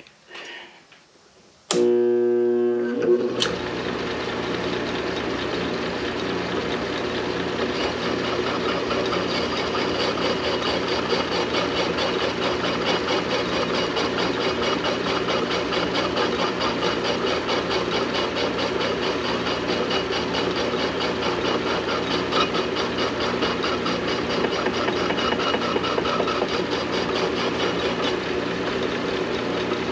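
Metal lathe switched on a little under two seconds in, its motor and gearing coming up to speed and then running steadily with a constant hum and a fast even mechanical chatter.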